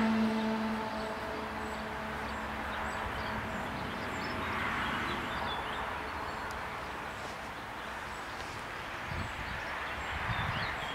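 Birds chirping over a steady rumbling background at a railway level crossing, with a pitched tone fading out in the first second.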